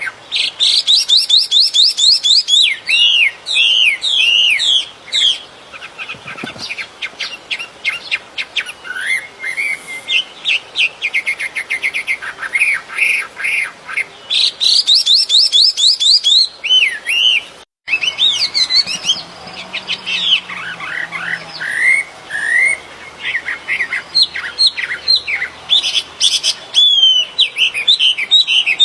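Songbird singing continuously: fast repeated chirps, rapid trills and gliding whistled notes, with one momentary dropout partway through.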